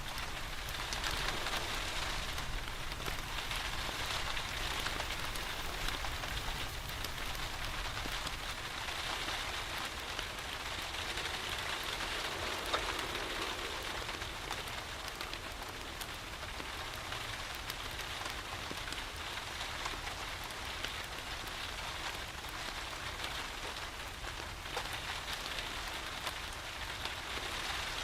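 Steady rain falling, mixed with the faint crackle of a wood fire in a fireplace, with one sharper pop about halfway through.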